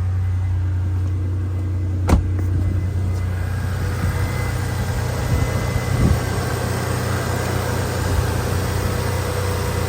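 Car engine idling steadily, smooth and quiet. A sharp knock sounds about two seconds in and a softer one about six seconds in.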